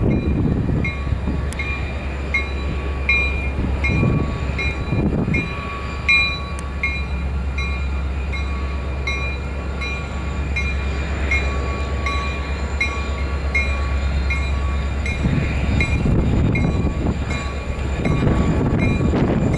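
CSX freight train passing with its diesel locomotives, a steady low rumble with rougher surges of wheel and car noise. A faint high ticking repeats about twice a second over it.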